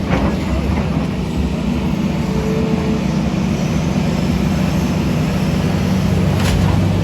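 A large engine running steadily with a low drone.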